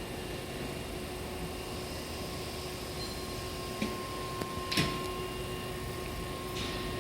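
Railway station platform ambience: a steady hum with a faint steady tone. Two sharp knocks come about four and five seconds in, the second the louder. A higher steady tone starts with the second knock and keeps on.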